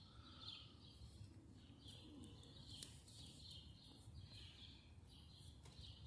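Near silence: faint bird chirps repeating about once a second in the background, with a couple of faint clicks.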